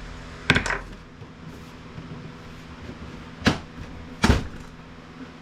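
Sharp knocks and clatter of hard printer parts and tools being handled and set down during disassembly: a quick double knock about half a second in, then two single knocks near the middle and end, over a steady low hum.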